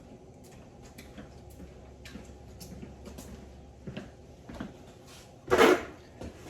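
Light clicks and taps of metal parts being handled during a steering box teardown, with one much louder short clatter about five and a half seconds in.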